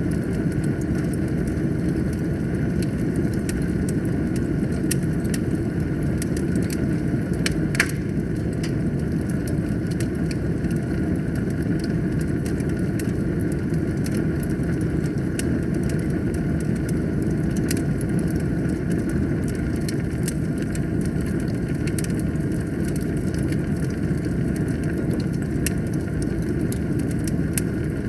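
Wood fire burning in a fireplace: a steady low rumble of flames with scattered crackles and pops of burning logs, and one louder pop about eight seconds in.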